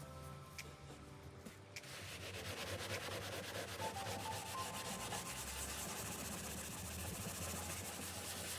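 Steady, rapid rubbing or scraping strokes, starting about two seconds in.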